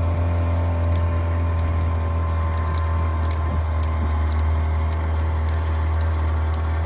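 Boat engine running steadily with a deep, even drone.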